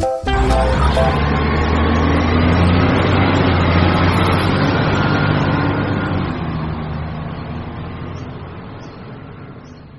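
Small diesel engine running steadily with a low drone, likely the engine driving the water pump. It fades gradually over the second half.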